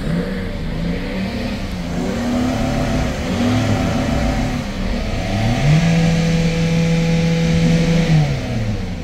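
Mercedes-Benz S-Class V6 engine being revved in the stationary car: a short rise in revs about two seconds in, then a longer, louder rev held from past the middle until near the end, before it falls back toward idle.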